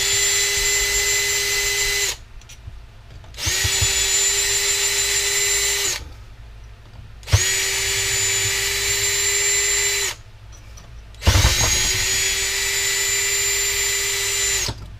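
Power drill with an Allen bit backing out four Allen screws: four runs of a steady high whine, each two to three and a half seconds long, with short pauses between.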